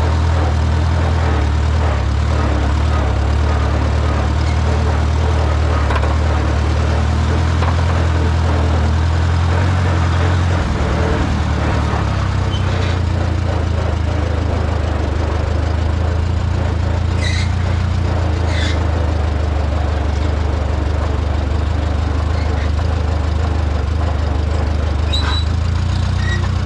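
Farmall A tractor's four-cylinder engine running steadily as the tractor is driven to park, its note changing about ten seconds in. A few light clicks are heard in the second half.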